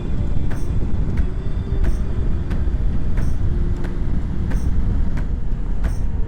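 Triumph Tiger 900 Rally's three-cylinder engine running under way, with heavy wind and road rumble on the camera mic. A light click repeats at an even pace about every two-thirds of a second.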